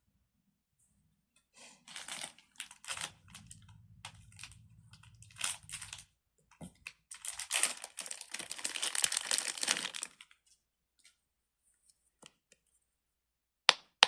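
Plastic crinkling and rustling in bouts as something is handled, followed by a few sharp clicks, the loudest near the end.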